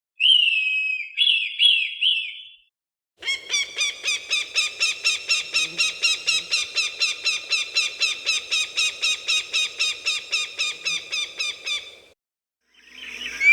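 Falcon calls: a short harsh call with a few quick falling notes, then after a brief pause a long, fast series of repeated shrill notes, about four a second, running for roughly nine seconds.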